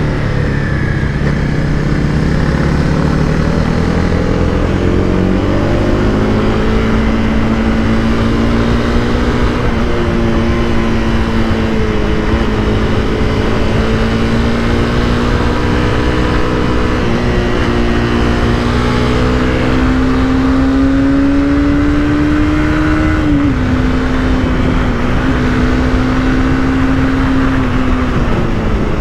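Honda CBR300R's single-cylinder engine under way. Its note falls at the start, then holds fairly steady with slow rises and small dips, drops suddenly about two-thirds of the way through, and falls again at the end, all over a steady rush of noise.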